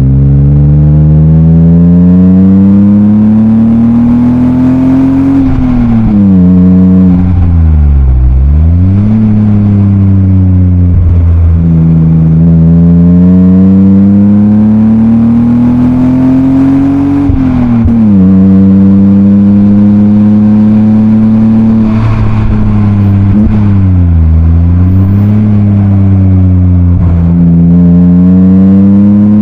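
BMW E36 328i's M52B28 straight-six under load, heard through a Schmiedmann rear silencer. The engine note climbs slowly, drops sharply about five and seventeen seconds in, and twice, around eight and twenty-four seconds in, falls away quickly and climbs again.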